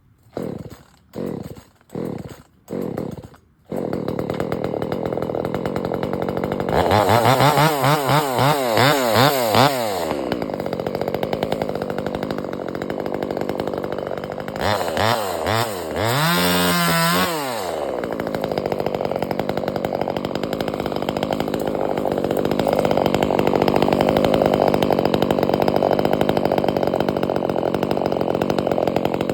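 Gas chainsaw being pull-started: four short sputtering pulls, catching on the next one about four seconds in. It then runs, is revved up and down in quick blips twice, and settles into steady running.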